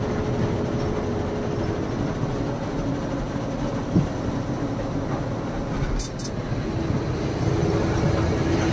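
Loaded lorry driving, its engine and road noise heard steadily from inside the cab, with a single knock about four seconds in.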